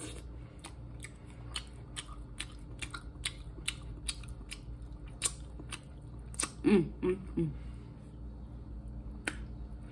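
Close-up mouth sounds of chewing seafood meat: wet smacks and clicks, about two to three a second, with a short humming "mm" about six and a half seconds in.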